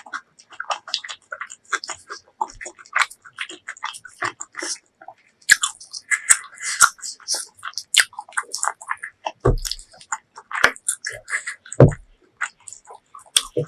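Close-miked chewing and biting of braised pork leg: a steady run of short wet mouth clicks and smacks. There are two low thumps, the first about two thirds of the way through and the second near the end.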